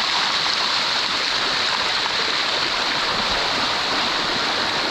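Steady rushing of water cascading over the rocks of a waterfall, close by, with most of its hiss high up and no breaks.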